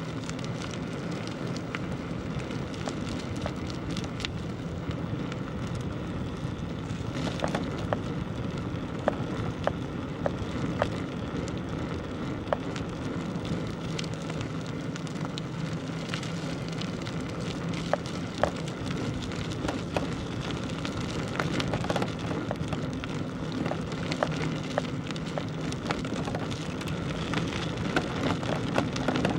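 Bicycle tyres rolling over a rough village path: a steady crackling hiss with scattered sharp clicks and a faint low hum underneath.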